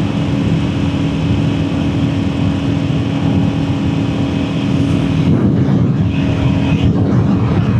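Kawasaki Ninja 400 parallel-twin engine cruising steadily at light throttle, with a constant engine tone and no revving, heard with wind rush on the rider's microphone.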